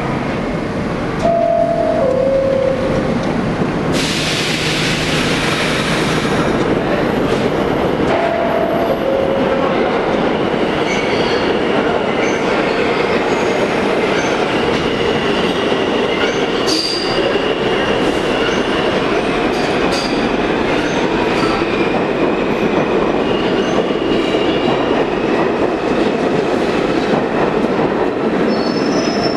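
A New York City subway train of R46 cars runs loudly through the station, with its wheels squealing in a thin, high whine. A two-note falling chime sounds twice, about a second in and again about eight seconds in, and there is a brief burst of hiss about four seconds in.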